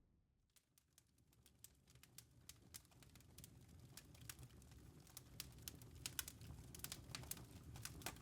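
Campfire crackling, fading in from silence: irregular sharp pops and snaps of burning wood over a low rumble, growing louder throughout.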